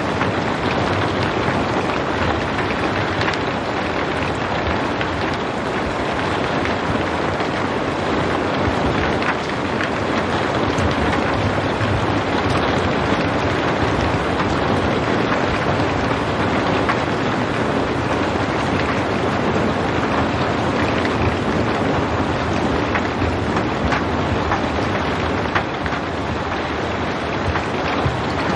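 Steady rain falling without thunder, an even unbroken hiss with faint scattered drop ticks.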